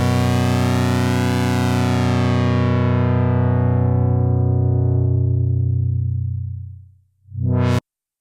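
Sequential analog polysynth holding one low, buzzy note whose brightness slowly fades, the filter closing, until it dies out about seven seconds in. A short note then swells up brighter and cuts off abruptly.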